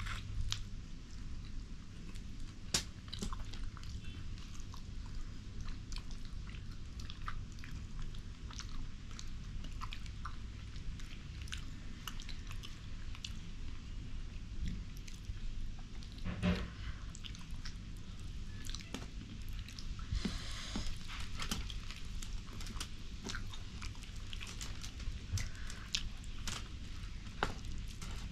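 Close-up mouth sounds of people eating rice and fish curry: wet chewing and lip smacks with many small irregular clicks.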